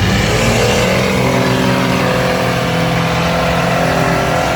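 Mud truck's engine run at wide-open throttle: its pitch climbs over the first second, then holds high and steady.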